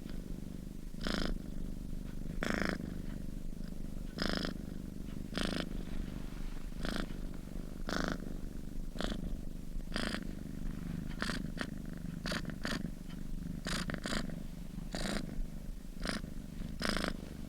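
A sleeping domestic cat purring steadily: a low continuous rumble with a short breathy rasp roughly every second.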